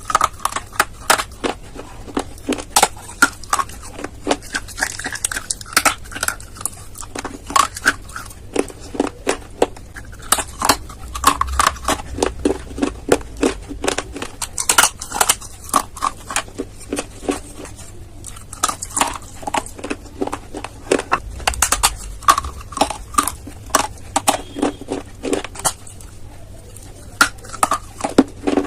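Dry clay being bitten and chewed: a rapid, continuous stream of sharp crunches and crackles.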